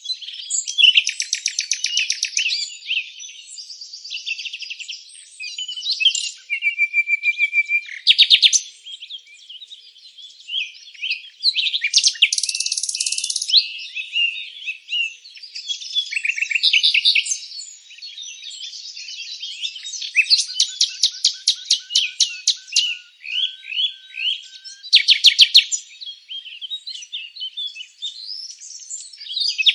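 A chorus of several songbirds singing at once: overlapping rapid trills, chirps and short whistled notes, one song following another without a break.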